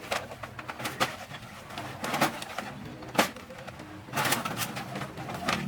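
Low cooing bird calls with scattered sharp clicks and knocks.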